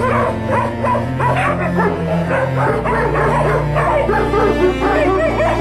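Dogs yipping and barking in quick, short calls over background music.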